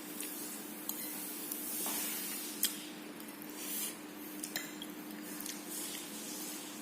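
Cutlery clinking and scraping against a plate of fried noodles during eating, with a few sharp clinks, the loudest a bit over two seconds in.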